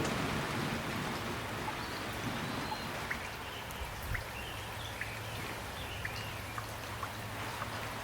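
Steady rain falling, with separate drops tapping close by. A few faint high sliding calls come through in the middle.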